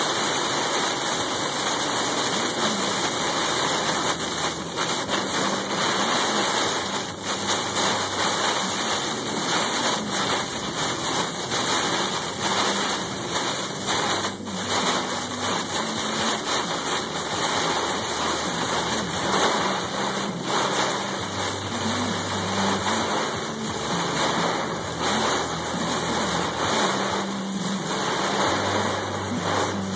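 Heavy rain and wind make a steady, loud rush of noise. A low hum comes and goes underneath in the last third.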